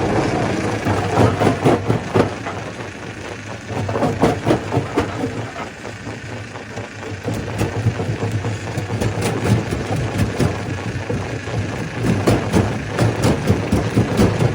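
Stone crusher running: a steady low machine hum under dense clattering knocks of rock being broken, coming in heavier bursts several times.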